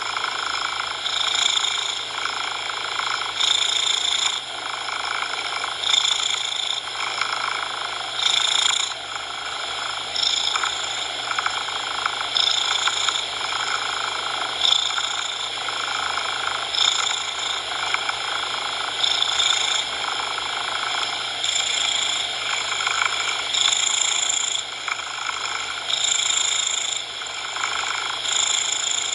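Cat purring, swelling and easing with each breath about every two seconds, layered over a steady hiss of coloured noise.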